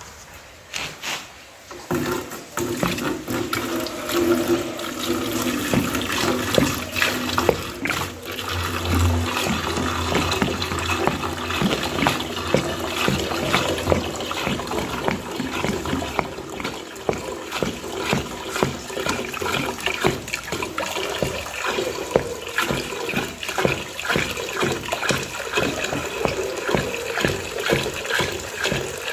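Water running and splashing steadily, a dense patter of small drops and spatters.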